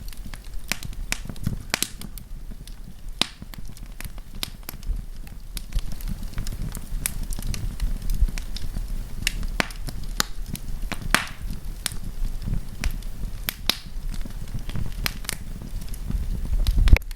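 Wood campfire crackling and popping: irregular sharp snaps from the burning wood, several a second, over a low, steady rumble.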